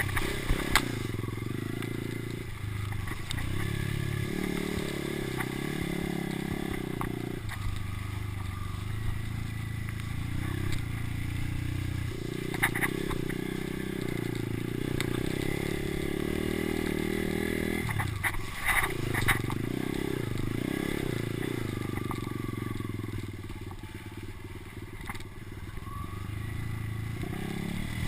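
Kawasaki motocross bike engine running under throttle, its pitch rising and falling in stretches of a few seconds as the rider opens and closes the throttle, with a few sharp clicks or knocks.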